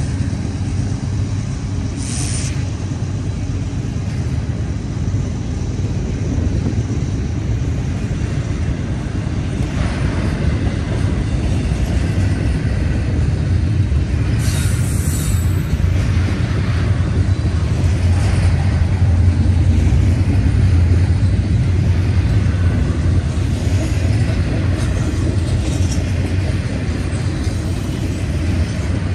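Double-stack intermodal freight train's well cars rolling past: a steady, loud low rumble of wheels on rail that swells a little past the middle, with brief higher-pitched squeals near the start and about halfway through.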